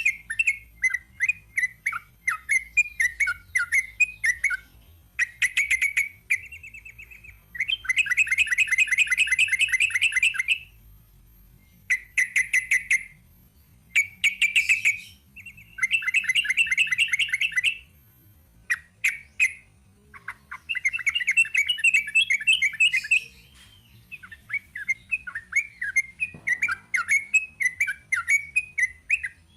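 Yellow-vented bulbul (trucuk) singing long rapid-fire "ropel" phrases. Fast runs of repeated notes, each lasting a second or more, alternate with choppier chattering phrases and short pauses.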